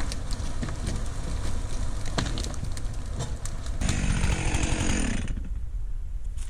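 A chainsaw revs at full throttle for about a second and a half, starting about four seconds in. Underneath, a steady low engine rumble runs with scattered knocks and clicks.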